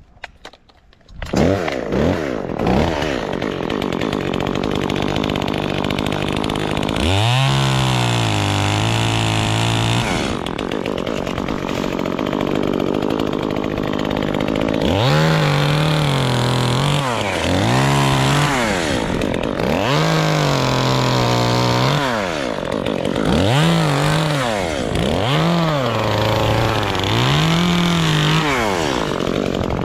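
Two-stroke chainsaw starting up about a second in, then idling and being throttled up to full speed and back down again and again, each burst held for one to three seconds.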